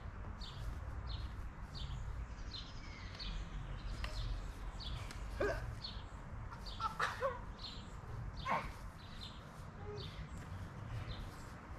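A bird chirping over and over in short high calls, about two a second, with three louder sharp calls about a second and a half apart in the middle, over a steady low rumble.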